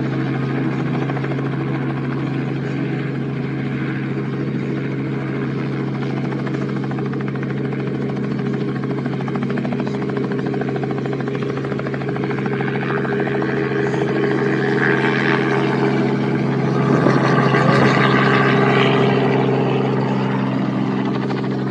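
Helicopter running, a steady droning hum that swells a little toward the end.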